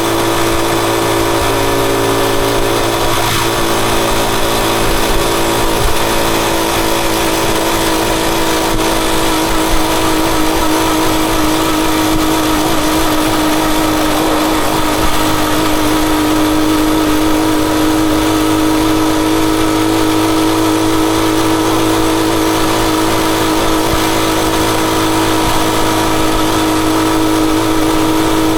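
Rusi Chariot 175 motorcycle engine running steadily at an even speed, with a steady rush of noise beneath it.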